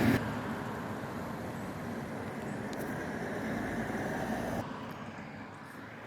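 A car going by on the road, a steady noise that grows slowly louder and then drops away suddenly about four and a half seconds in.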